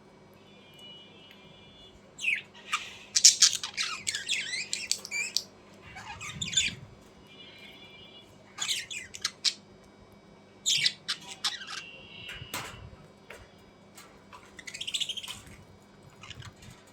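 Birds giving harsh, scratchy squawks in repeated short bursts, with softer thin chirps between them.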